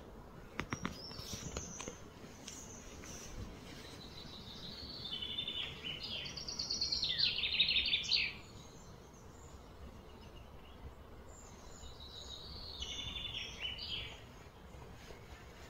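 A songbird singing two phrases of rapid repeated high notes that step down in pitch: a longer, louder one about four seconds in and a shorter, softer one later. A few light clicks come at the start.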